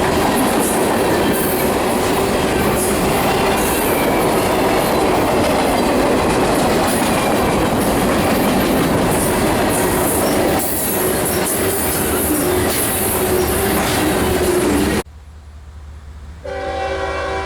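CSX freight train rolling past close by, steel wheels clattering over the rail joints in a steady loud rumble. It cuts off suddenly about fifteen seconds in, and after a short lull a locomotive's multi-chime air horn starts sounding near the end.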